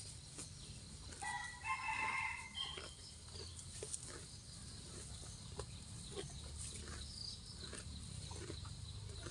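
A cow grazing, tearing and chewing grass in short soft crunches about twice a second. A chicken calls once, about a second in, for a second and a half.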